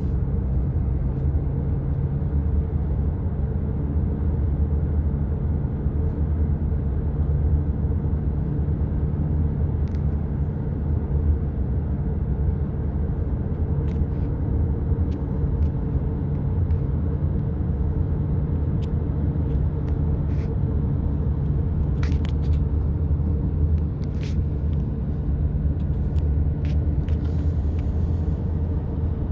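Engine running steadily at idle, a constant low drone, with a few faint ticks scattered through it.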